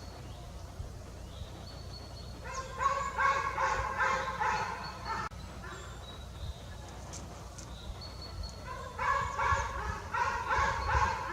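Young Eurasian jay calling: two bouts of rapid, repeated harsh calls, the first about two and a half seconds in, the second near the end.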